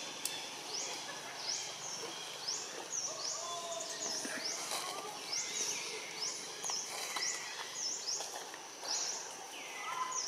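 Tropical forest ambience with a bird repeating a short, high, upward-sweeping call about once or twice a second.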